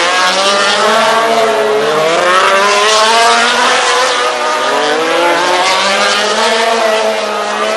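MotoGP racing motorcycle engines at full throttle, more than one bike heard, each note climbing in pitch and dropping back at the gear changes and on braking.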